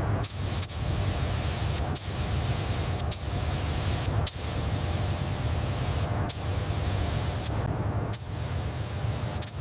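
Steady hissing spray with a low rumble underneath, broken by abrupt cuts every second or two.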